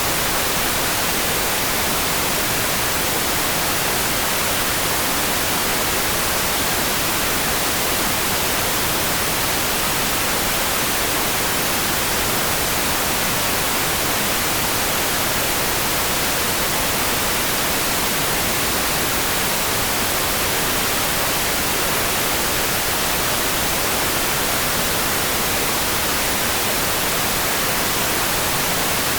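Steady rain, an even hiss that holds at one level, with no separate drops or thunder standing out.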